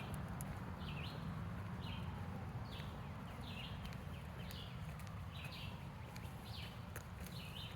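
Footsteps on a woodland trail with a low, steady rumble, while a bird repeats a short high call about once a second.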